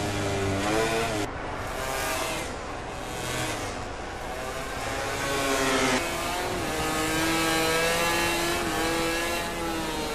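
MotoGP racing motorcycle engines at high revs, the pitch climbing and falling. It climbs steadily until it drops suddenly about six seconds in, then holds high and steady.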